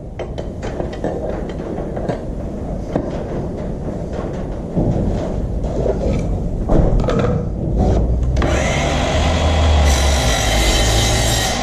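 Clicks and knocks of handling for the first several seconds. Then, about eight seconds in, the DeWalt 18 V cordless chop saw's motor starts and the freshly fitted blade cuts through the workpiece with a steady, high whine.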